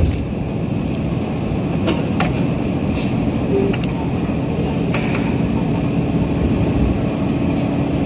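Nagoya subway Tsurumai Line 3000 series train running, heard from inside the car: a steady rumble with a few sharp clicks scattered through it.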